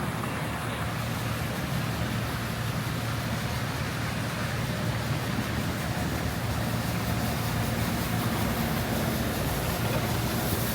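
Steady city street noise of traffic, an even wash of sound with a low rumble, heard while walking in a snowstorm.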